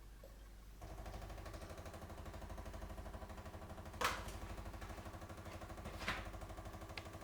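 Bosch Tassimo T20 pod coffee machine's pump starting up about a second in and running with a steady, fast pulsing hum as it brews a hot chocolate T disc, with two sharp clicks partway through.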